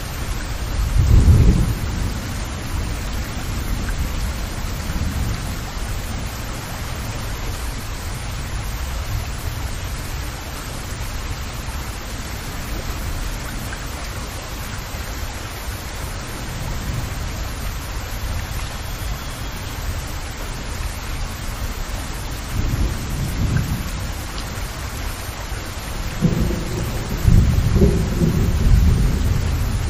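Steady rain falling, an even hiss. Deep low rumbles swell up about a second in, again briefly near the end, and strongest just before the end.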